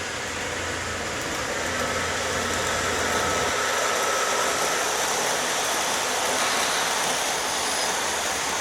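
A train passing, with a steady rolling noise that grows a little louder about two seconds in.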